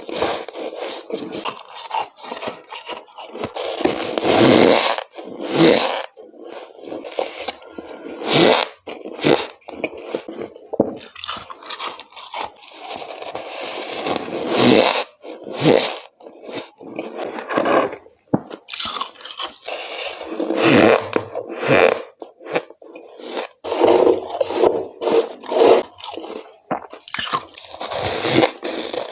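A series of close-miked bites into fluffy freezer frost (the thick frost built up in a freezer run with a humidifier), one every second or two, each a short burst of crunch.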